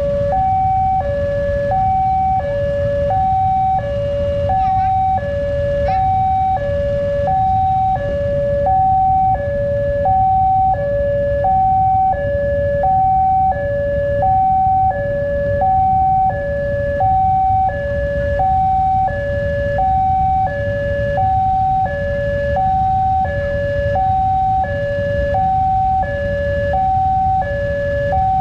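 Indonesian railway level-crossing warning alarm sounding continuously: an electronic two-tone signal alternating high and low, about one cycle a second, which means a train is approaching or passing and the barriers are closed. A low rumble runs underneath.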